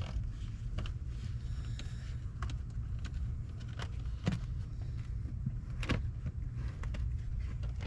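Rubber door seal of a Mercedes W140 S500 being pulled slowly off the door opening's flange: a scattering of short clicks and ticks, about five or six, over a steady low hum.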